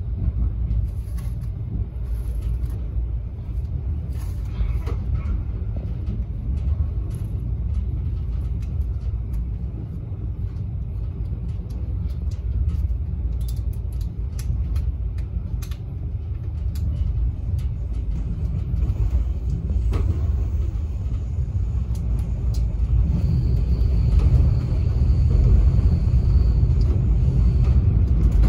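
Passenger train running along the track, a steady low rumble heard from on board, growing somewhat louder over the last several seconds. A faint high whine joins in a few seconds before the end.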